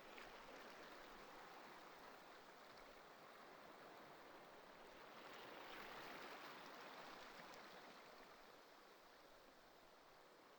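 Faint ocean surf: a steady wash of waves that swells a little around the middle and eases off near the end.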